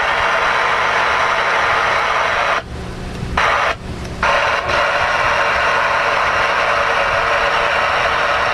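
Steady radio static hissing from a 10-meter radio's speaker, narrowed to a mid-range band by the radio's audio, cutting out twice for under a second about three and four seconds in. A faint low hum lies underneath.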